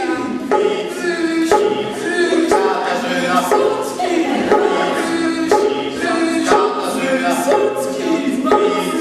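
A group of voices singing a cappella in layered, repeating chant-like phrases, a new phrase starting about once a second.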